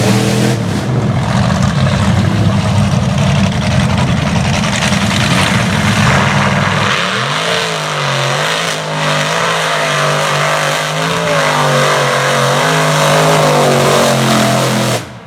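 Mega mud truck's engine running hard at high revs under a heavy rushing noise. About seven seconds in, it drops to a lower, steadier engine note with a slight waver, and the sound cuts off abruptly at the end.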